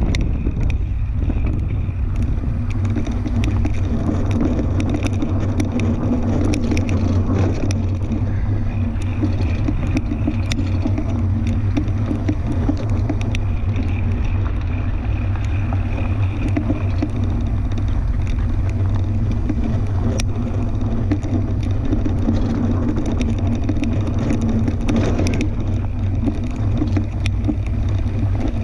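Fat-tire tandem mountain bike riding along a dirt trail: a steady low rumble of tyres and wind on the microphone, with scattered small clicks and rattles.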